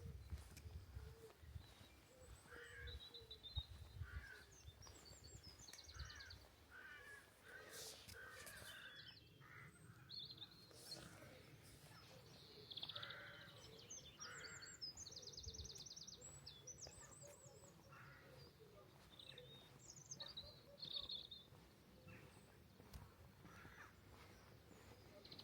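Faint birdsong around a quiet village: crows cawing, with small songbirds giving high, rapid trills and chirps between the caws. Soft low thumps in the first few seconds.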